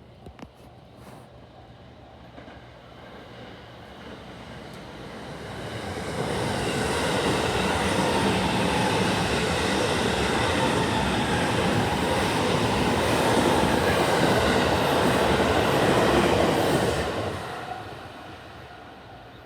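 JR West 223 series electric train passing over a level crossing: the noise builds about four seconds in, stays loud for about ten seconds as the cars go by, and fades away near the end.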